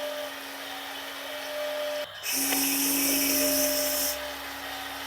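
Small electric motor of a remote-control dump truck whining steadily. About two seconds in it cuts out for a moment, then runs louder with a hiss for about two seconds before easing back.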